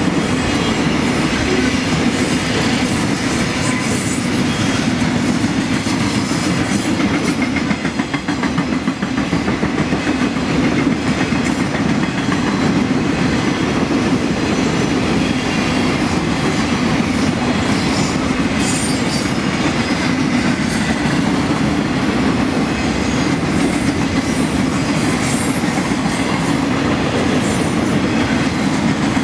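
Loaded flatcars of a long freight train rolling past close by: a steady rumble of steel wheels on the rails, with clicking and occasional brief high squeals from the wheels.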